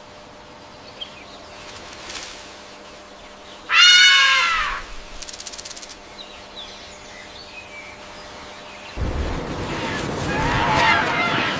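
Bird calls: one loud, harsh call with an arching pitch about four seconds in, then a noisy stretch of chattering calls from about nine seconds in.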